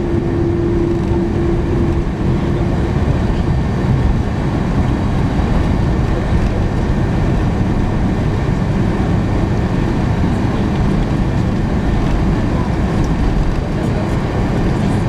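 Cabin noise inside an Airbus A310-300 on the ground just after landing: a loud, steady rumble of the engines and the rolling aircraft, with a steady hum that fades out about three seconds in.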